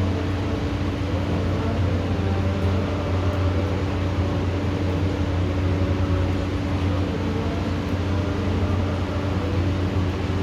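Steady low mechanical hum over an even wash of noise, with no change or break, like a machine running constantly.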